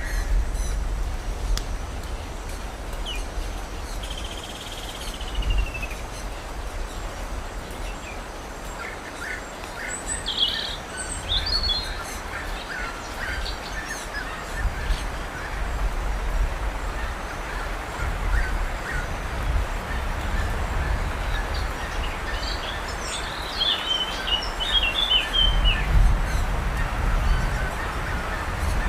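Wild birds chirping and calling now and then, with a busier run of chirps a little before the end, over a steady low rumble.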